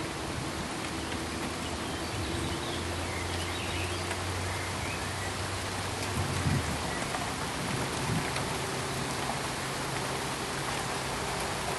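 Steady pink noise, an even rain-like hiss, with a faint low hum underneath and two brief low thuds about six and eight seconds in.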